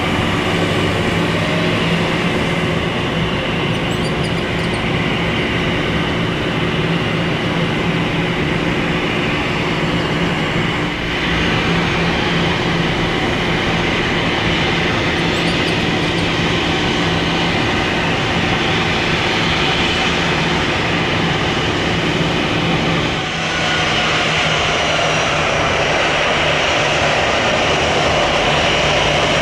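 Jet aircraft engines running loud and steady, a constant rush with a steady whine over it; the tone shifts about 23 seconds in.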